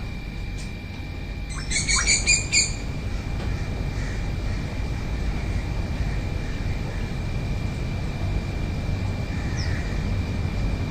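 A bird calls about two seconds in, a short run of rapid repeated notes, and a few faint short chirps follow near the end, over a steady low background rumble and a thin steady high tone.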